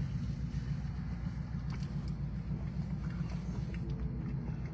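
Steady low rumble of a car on the move: road and engine noise, with a few faint clicks.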